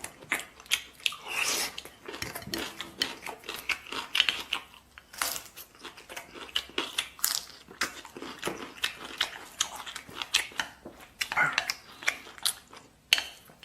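Close-up eating sounds: a person chewing and biting on mouthfuls of rice with braised pork, a steady irregular run of wet smacks and small clicks.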